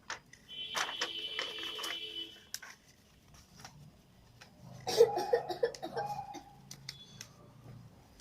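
Sheet of paper being handled and creased while folding a paper airplane, with scratchy rustles, and a short giggle of quick pitched bursts about five seconds in.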